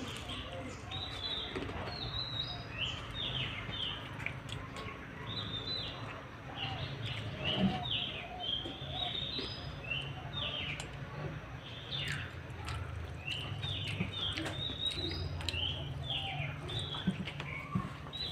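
Small birds chirping over and over in quick, short downward-sliding notes, with a low steady hum underneath and a few sharp clicks now and then.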